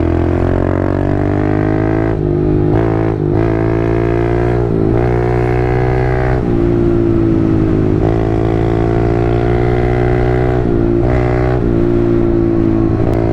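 Kawasaki KLX110 pit bike's small four-stroke single-cylinder engine under way, climbing in pitch and dropping back at several gear changes, with a stretch of steady cruising in the middle and more shifts near the end.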